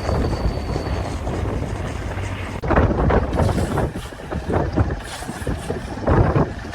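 Blizzard wind buffeting the microphone: a steady low rumble, then from about two and a half seconds in, irregular gusts.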